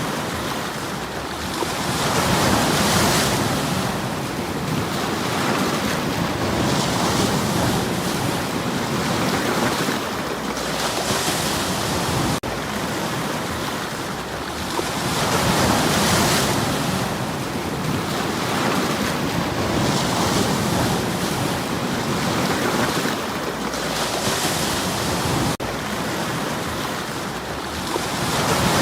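Sea waves washing in against shore stones, the surf swelling and easing every four to five seconds over a steady rush of water.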